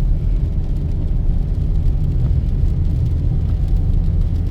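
Car driving along the highway: a steady low rumble of road and engine noise.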